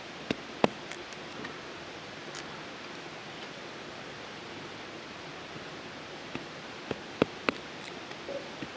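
A few sharp woody clicks and knocks of a Mora Garberg knife working dry, crumbly wood: two near the start and three close together about seven seconds in, over a steady outdoor hiss.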